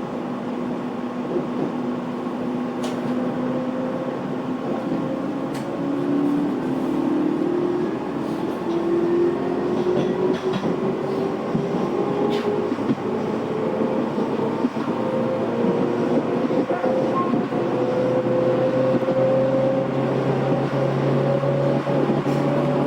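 Electric commuter train accelerating, heard from inside the passenger car. Its traction motors give a whine made of several tones that climb slowly in pitch over running noise and a few sharp clicks.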